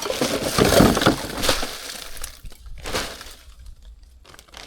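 A bag being handled, rustling and crinkling in dense bursts with a couple of sharper crackles, then quieter scattered rustles in the second half.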